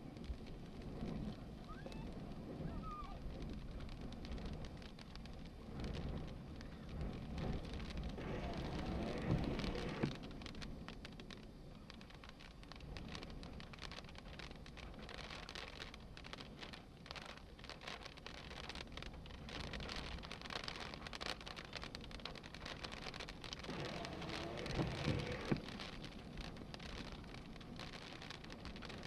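Thunderstorm noise: rain pattering with fine crackles, and gusts of wind rumbling on the microphone that swell about a third of the way in and again near the end.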